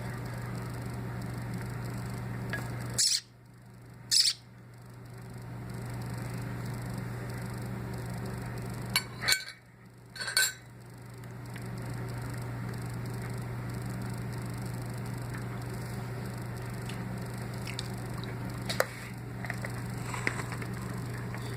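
A nestling bird giving short, sharp high-pitched cheeps while being hand-fed: two about three seconds in, three around nine to ten seconds, and one near the end, over a steady low hum.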